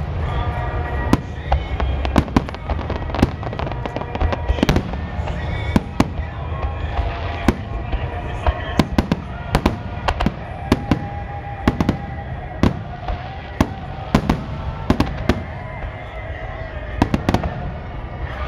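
Aerial firework shells bursting in rapid, irregular succession, a sharp bang every fraction of a second over a low rumble, with music playing underneath.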